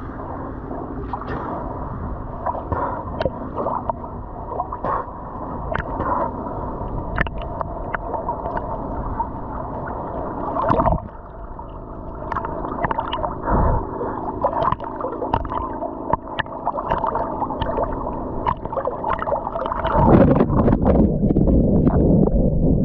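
Sea water sloshing and gurgling against the camera while swimming, with many small splashes. It grows louder and fuller about twenty seconds in.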